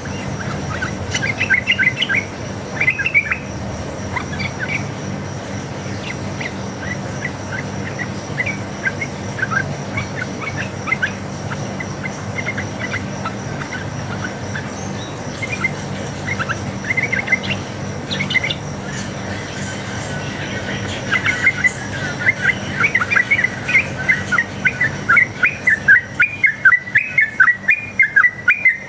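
Yellow-vented bulbul (trucuk) calling in bubbly chirps, breaking into a fast run of repeated notes, about three a second, in the last several seconds, over a steady low hum.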